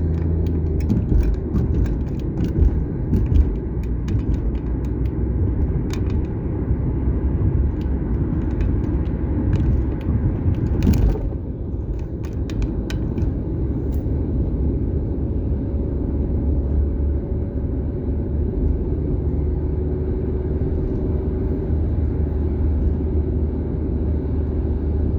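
Car driving on the road, heard from inside the cabin: a steady low rumble of tyres and engine, with a few light clicks and one louder knock about eleven seconds in.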